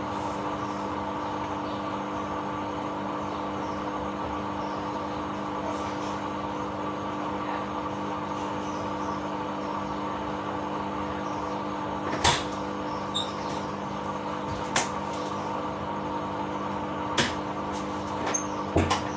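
Samsung top-loading washing machine running with a steady motor hum. Several sharp clicks or knocks come in the second half.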